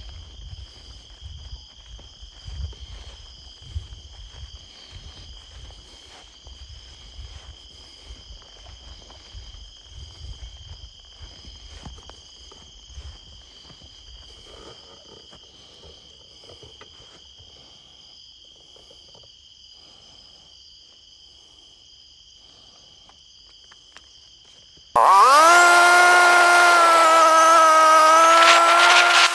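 Insects droning in steady high tones, with low rustling and thumps in the first half. About 25 seconds in, a loud motor starts abruptly, rises briefly in pitch, then runs steadily.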